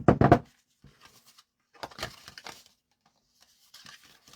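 Paper rustling and crinkling as a piece of masking paper is handled, loudest in a short crackle right at the start, with softer rustles about two seconds in and again near the end.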